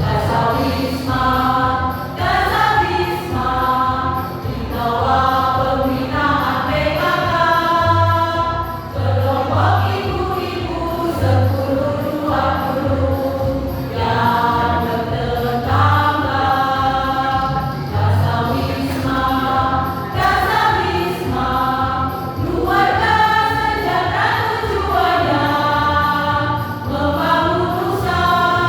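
Amateur choir singing a song in parts to an accompaniment with a steady low bass beat.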